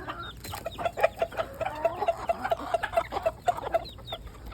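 Domestic hens clucking in a rapid run of short notes while being fed.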